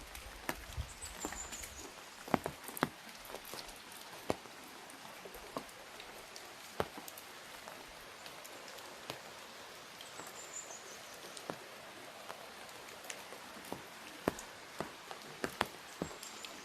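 Rain falling on an umbrella: a steady patter with individual drops striking sharply at irregular moments. A faint high falling chirp sounds three times.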